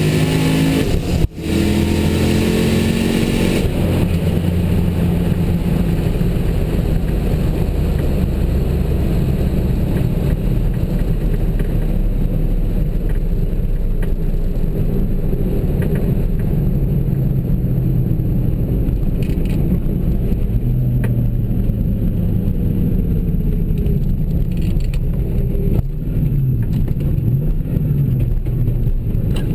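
Car engines under hard acceleration, pitch climbing for the first few seconds with a brief drop about a second in, then settling into a steady lower engine drone with road and wind noise.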